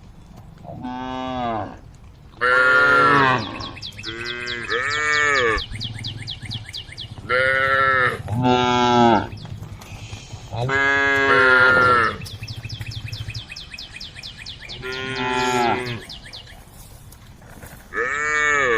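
Cows mooing again and again: about nine short calls, each rising and then falling in pitch, some coming in quick pairs.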